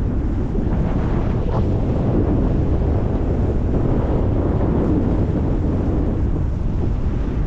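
Airflow buffeting a paraglider pilot's camera microphone in flight: a steady, loud rush of wind noise, heaviest in the low end.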